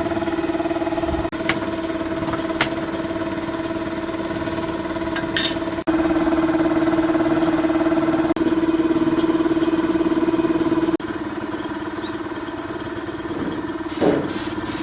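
A motor running at a steady high pitch, heard in several short stretches that break off abruptly, with a few light clicks and some knocks near the end.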